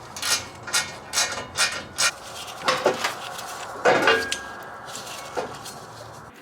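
A quick series of light clicks and knocks, roughly two to three a second, with two louder clattering scrapes in the middle: hard objects being handled.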